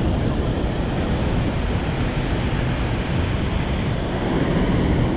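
Loud, steady rush of water pouring out of a dam's release gates into the tailwater.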